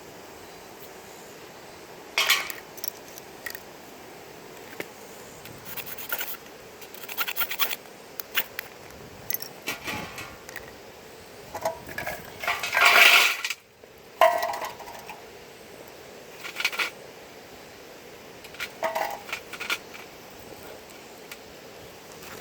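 Irregular short clinks and scrapes of hard objects being handled while a campfire is being lit, with one longer scraping rush about 13 seconds in.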